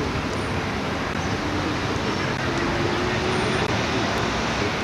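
Steady rumble and hiss of a car driving slowly, road and engine noise with no pauses.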